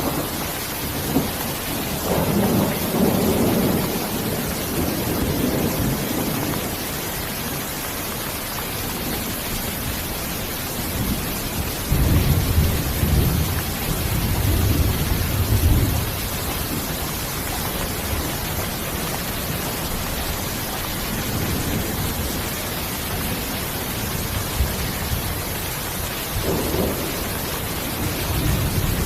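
Steady rain with low rolling thunder rumbling several times, the strongest rumble about twelve to sixteen seconds in.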